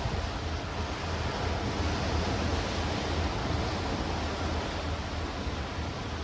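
Sea waves breaking and washing over dark rocks and stones on the shore, a steady rush of surf with wind rumbling on the microphone.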